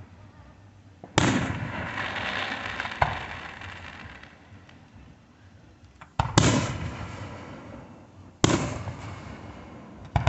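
Fireworks bursting: four loud booms roughly two seconds apart plus a smaller bang about three seconds in, each trailing off over a second or two.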